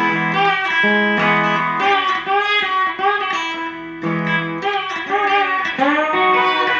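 Guitar playing an instrumental passage, with held low notes and higher notes that bend up and down in pitch.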